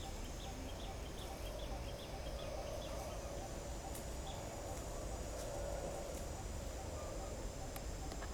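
Outdoor nature ambience: a steady high insect drone with a short call repeating every fraction of a second, a few light clicks, and a constant low background rumble.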